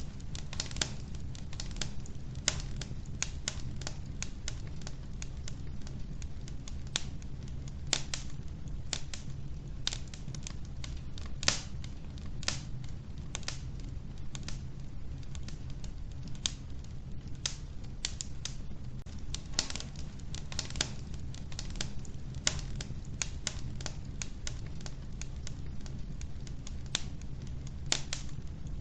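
Wood fire burning in an old wood-burning stove, crackling with many irregular sharp pops and snaps, several a second, over a steady low rumble of the flames.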